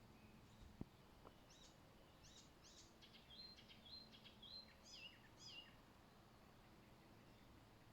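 A faint songbird song: one phrase of quick chirps sweeping down in pitch, then short whistled notes, starting about a second and a half in and ending after about four seconds. A single soft click comes just before it.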